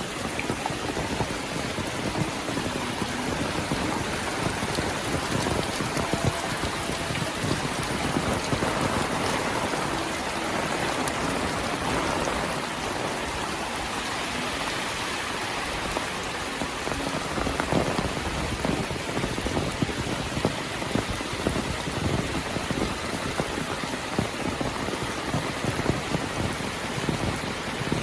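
Heavy rain falling steadily, with dense close drops pattering on nearby surfaces.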